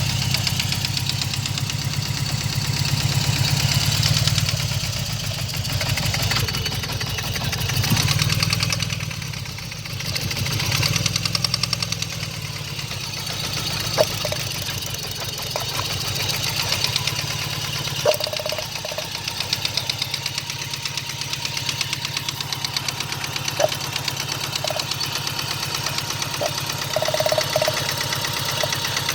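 Engine of a 1995 GSX running after sitting for over a year, with a rapid, even knocking. The engine speed swells and falls over the first dozen seconds, then it settles to a steadier idle. The owner suspects the knock is a rod knock from spun rod bearings.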